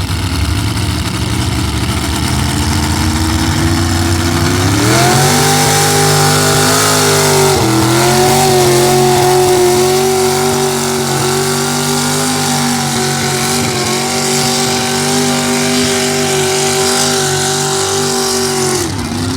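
Truck engine revving up and held at high revs under heavy load, pulling a weighted sled. The revs dip briefly about seven and a half seconds in and drop off near the end.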